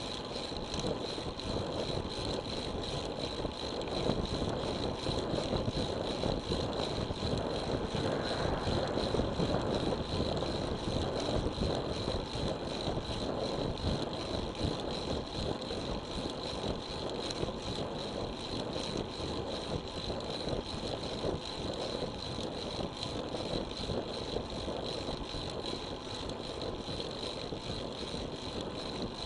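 Road bicycle riding along: a steady rush of wind and tyre-on-road noise on the action camera's microphone, with a thin, steady high-pitched tone over it.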